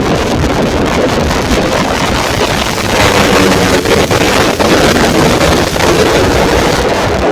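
Racing underbone motorcycles' tuned 130cc engines running at high revs, with wind buffeting the microphone; a little louder from about three seconds in.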